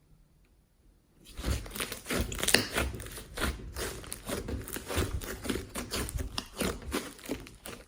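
Slime being squished and kneaded by hand, with dense irregular crackling and popping that starts about a second in.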